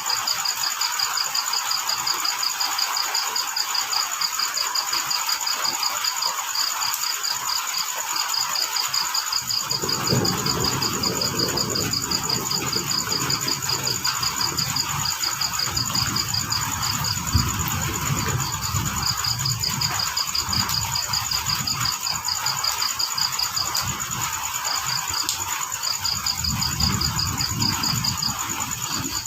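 Crickets chirping in long rapid pulsed trills with short pauses, over a steady high insect drone and the even hiss of rain. About ten seconds in, an irregular low rumble joins in.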